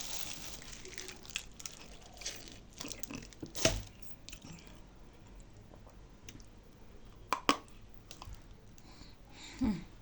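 Dry nzu clay being bitten and chewed, with sharp crunches and crumbly crackling scattered through, the loudest about a third of the way in and twice more near the end.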